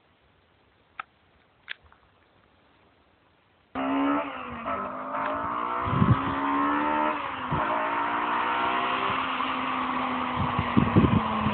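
Near silence with a couple of faint clicks, then about four seconds in the Honda K20A inline-four of a DC5 Integra Type R sets in suddenly and loud, running hard at high revs with its pitch slowly falling. Several low thumps come in the second half.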